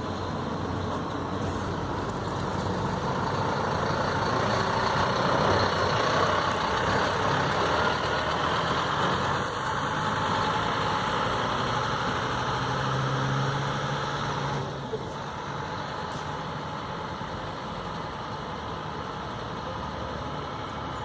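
Scania K 310 bus engine running, getting louder over the first several seconds. About fifteen seconds in there is a short click, and the sound settles to a lower, steady level.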